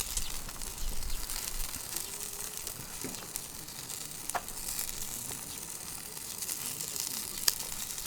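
Food sizzling as it fries in a pan: a steady hiss with fine crackles and a sharper tick near the end.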